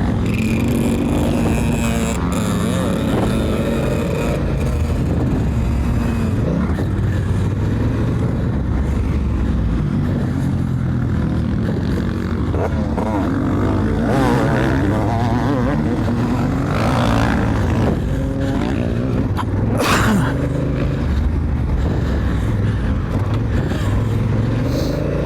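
Honda Africa Twin's parallel-twin engine running under load off-road, revving up and down as the DCT gearbox shifts on its own, with wind on the microphone. A short sharp knock is heard about twenty seconds in.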